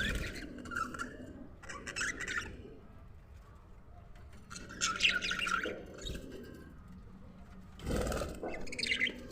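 Budgerigars chirping and chattering in several short bursts.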